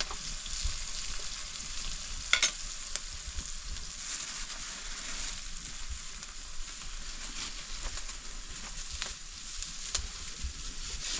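Food frying in hot oil in a pan: a steady sizzle with scattered sharp crackles, one louder pop about two and a half seconds in.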